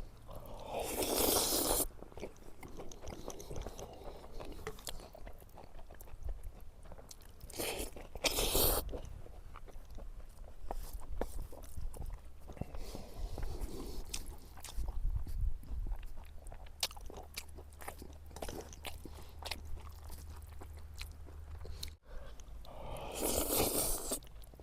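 A person eating close to the microphone: chewing and biting with small clicks throughout, and three louder noisy bursts about a second long, near the start, about eight seconds in, and near the end.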